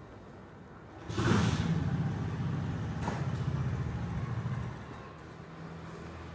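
A low, engine-like rumble that starts suddenly about a second in with a brief hiss, holds for a few seconds, and dies away near the five-second mark.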